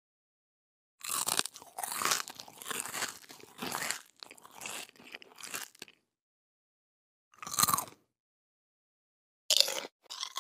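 Fruit being bitten and chewed with crunching: a dense run of crunches for about five seconds, then two short bursts of crunching near the end.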